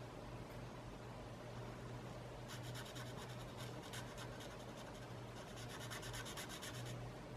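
Quick, repeated strokes of a drawing tool scratching across paper, in two bursts of about a second and a half each, over a low steady hum.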